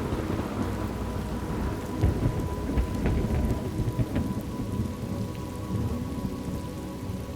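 Thunderstorm: steady rain falling, with thunder rumbling low underneath and a few sharper cracks a couple of seconds in.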